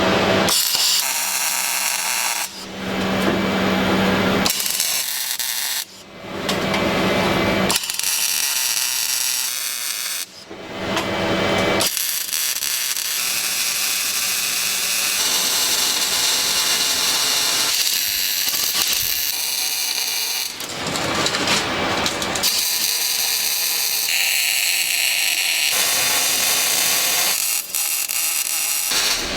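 Power tools working metal in a fabrication shop, a steady hissing, grinding noise that changes sharply every few seconds as one tool or job gives way to another.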